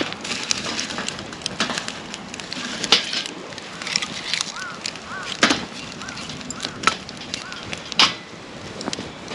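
Wood campfire crackling steadily, with a string of sharp pops; the loudest come about three seconds in, at five and a half, at seven and at eight seconds.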